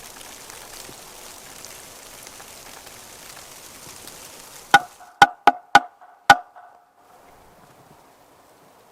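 A steady hiss, then five sharp knocks with a short ringing tone, spread over about a second and a half starting near the middle.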